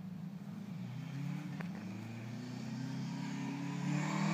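1978 Honda CB750's inline-four running through a 4-into-1 exhaust as the bike is ridden, rising in pitch from about a second in and getting louder toward the end.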